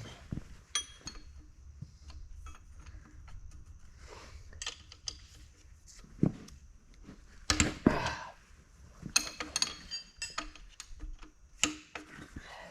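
Hand tools clinking and knocking against metal in irregular bursts: wrenches and sockets at work on a diesel engine being stripped down. The loudest clatter comes about two-thirds of the way through.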